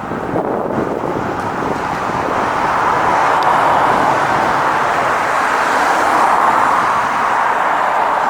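A car passing on the road, its tyre and engine noise swelling to a peak in the middle and then slowly fading.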